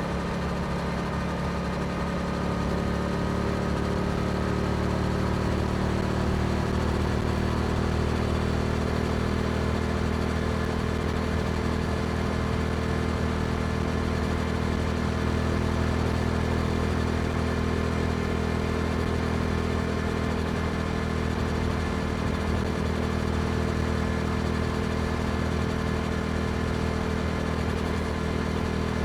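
Yamaha R7 motorcycle engine running through an aftermarket Akrapovic exhaust while riding: it pulls up gently in pitch over the first few seconds, then holds a steady cruising note.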